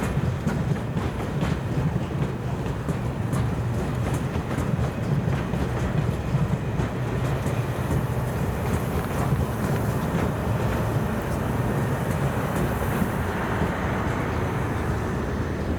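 A train rolling past: a steady rumble of wagons on the rails, with wheels clicking over rail joints through the first half.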